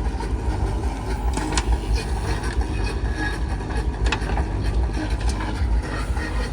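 Heavy diesel machinery engine running steadily, a low rumble with a few sharp knocks and clicks.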